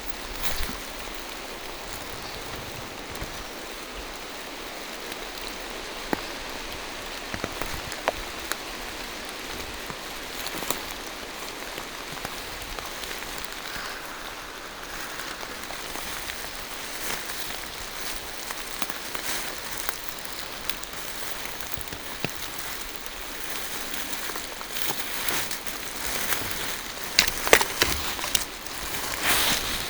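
Steady rain falling through forest trees, a continuous hiss with scattered louder drops ticking. A denser run of sharp taps comes near the end.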